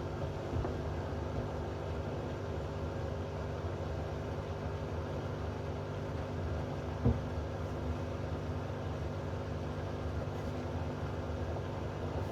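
Hoover washing machine with an inverter motor running between spin attempts near the end of its cycle: a steady motor hum with the drum turning, and one sharp knock about seven seconds in.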